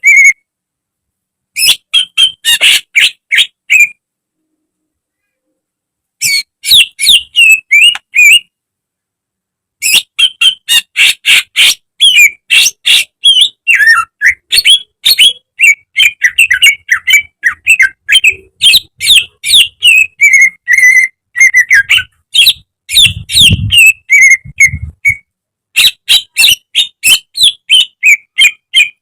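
Green leafbird (cucak ijo) singing loud, rapid runs of sharp whistled and chattering notes in bursts. The bursts are split by abrupt gaps of silence: about a second in, from about 4 to 6 s, and from about 8 to 10 s.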